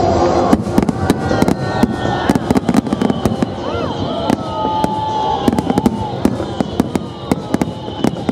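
Aerial fireworks finale: a dense barrage of shell bursts, many sharp bangs in quick succession starting about half a second in.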